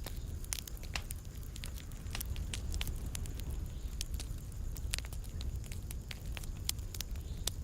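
Fire in a fireplace crackling: irregular sharp pops and snaps, several a second, over a low steady rumble.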